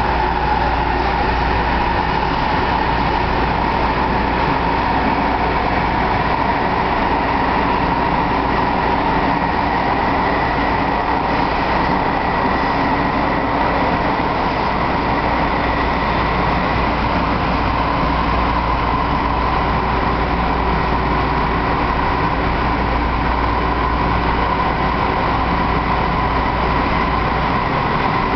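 Inside an MTR MLR (Metro-Cammell) electric multiple-unit train running at steady speed. There is a loud, unbroken running noise from wheels and rail, with a steady whine-like tone held above it.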